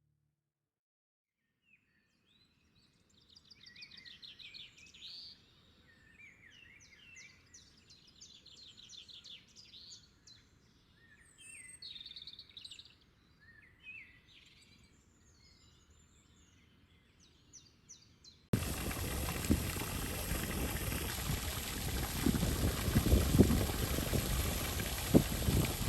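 Small songbirds chirping and trilling faintly. About 18 seconds in it cuts abruptly to loud wind on the microphone: a steady rush with low gusty thumps.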